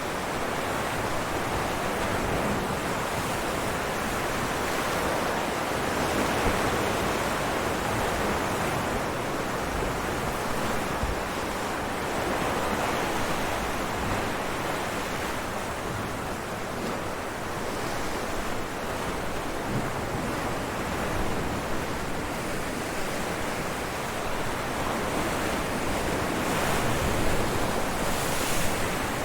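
Ocean waves breaking against rocks, a continuous rushing wash of surf that swells and eases gently with each wave.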